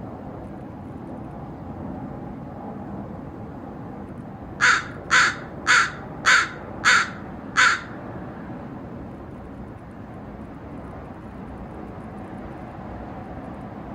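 A crow cawing six times in a quick, even series, about half a second apart, starting about five seconds in. A steady low background noise runs underneath.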